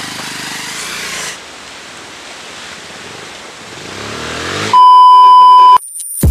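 Bajaj Pulsar 220F's single-cylinder engine running under a rushing hiss, revving up toward the end. It is then cut off by a loud, steady, high beep tone lasting about a second.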